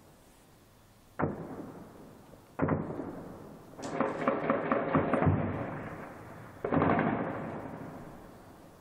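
Gunfire from a street battle, echoing between buildings. Heavy single reports come about one and two and a half seconds in, then a burst of rapid shots from about four to five and a half seconds, then another heavy report near seven seconds. Each report trails off in a long echo.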